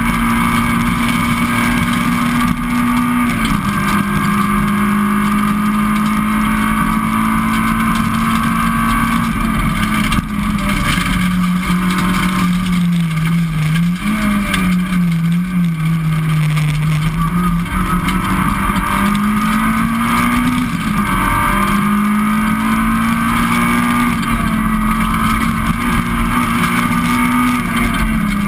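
Citroën Saxo VTS rally car's four-cylinder engine at high revs, heard from inside the cabin. The pitch holds steady with a drop a few seconds in and again near the end; in the middle the revs sag and waver, then climb and drop again.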